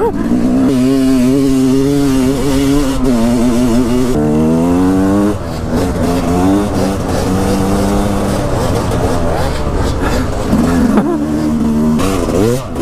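Dirt bike engine running hard under throttle as it is ridden. Its pitch climbs and drops with the throttle and gear changes, with a clear rising rev about four seconds in, over steady wind rush.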